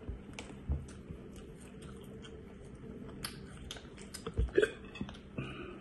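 Eating sounds: a person chewing with small wet mouth clicks and smacks, and one louder short mouth sound about four and a half seconds in.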